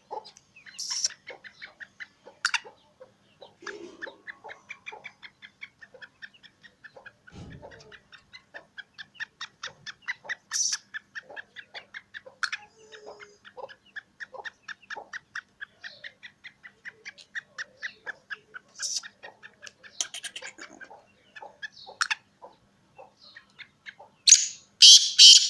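Black francolin calling: a long run of rapid, evenly spaced short notes, about four or five a second, then a few loud, harsh calls near the end.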